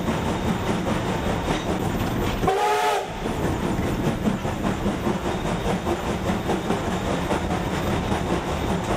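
A train running along the track with steady running noise. A little over two seconds in, a short whistle sounds for about half a second.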